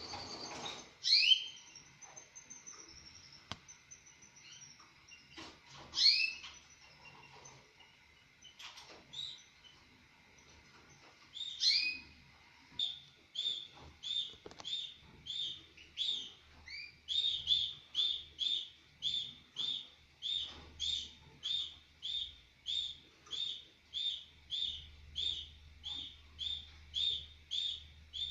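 Mosaic canaries calling: a few loud, high, rising call notes several seconds apart, then from about halfway a steady run of short chirps, nearly two a second.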